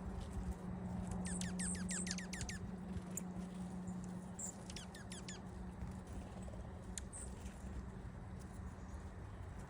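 Small wild birds giving a quick run of about eight high chirps, each sweeping downward, about a second in, and a shorter run of a few more midway. A steady low hum runs underneath and stops near the end.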